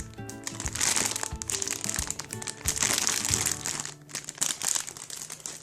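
Background music with plastic crinkling over it, loudest in two stretches about a second in and near the middle, as a squishy toy is handled.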